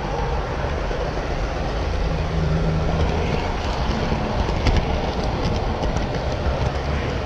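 HO scale model train running on the layout: a steady rumble of wheels and motor on the track, with a short run of sharp clicks about four and a half to five and a half seconds in.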